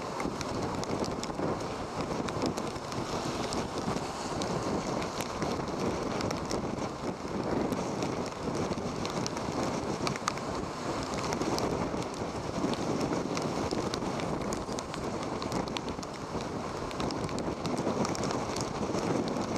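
Hurricane wind and heavy surf: a steady rush of noise that swells and eases, with wind buffeting the microphone and many faint scattered ticks.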